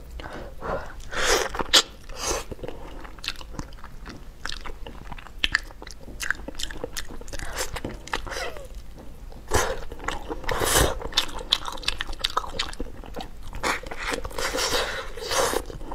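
Close-up eating sounds of spicy braised duck being gnawed off the bone: wet chewing, biting and lip-smacking with frequent small crunches and clicks, louder in a few clusters.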